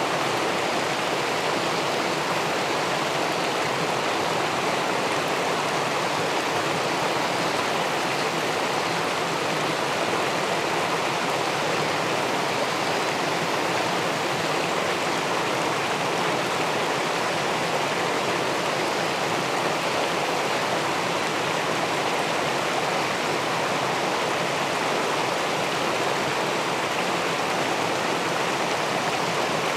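Steady rush of river water spilling over a weir into the pool below, an even noise with no breaks or single splashes.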